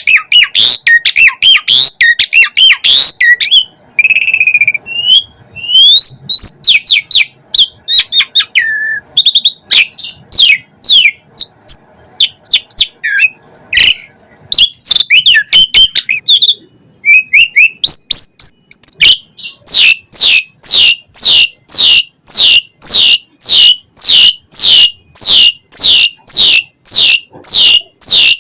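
Pied starling (jalak suren) singing a varied, loud song of whistles, chirps and gliding notes. Its song is rich in mimicked phrases. About two-thirds of the way in it settles into a fast run of one repeated downward-sweeping whistle, about two a second.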